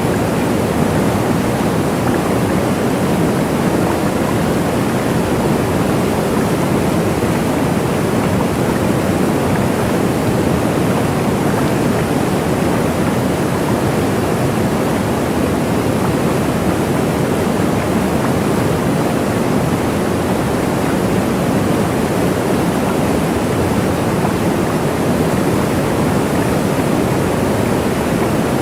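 Waterfall: a steady, full rush of falling water, unchanging throughout.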